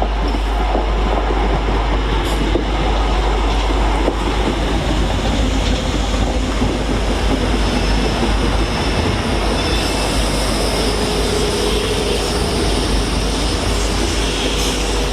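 Royal Mail Class 325 electric parcels unit running into the station at low speed, a continuous rail noise of wheels and motors. A steady whine comes in about ten seconds in.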